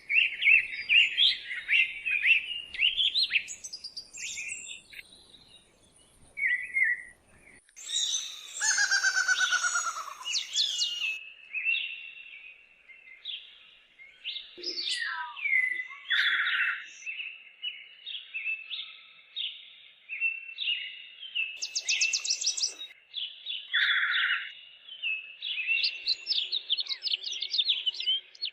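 Several songbirds singing, their phrases overlapping: quick chirps and trills, with a louder stretch of several birds at once about a third of the way in.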